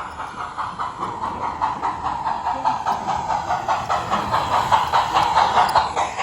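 Model train running on its track with a rapid, even clatter that grows louder toward the end.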